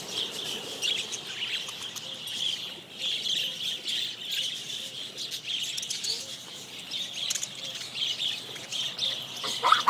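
A flock of budgerigars chattering, with many high chirps overlapping without a break.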